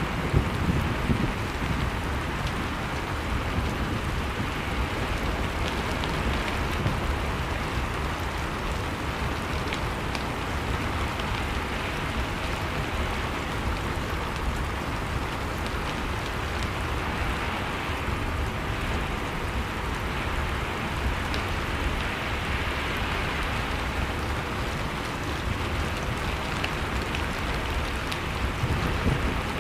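Blizzard wind sound mixed with a crackling wood fire: a steady rushing noise with a few faint pops, and a deep rumble that swells near the start and again near the end.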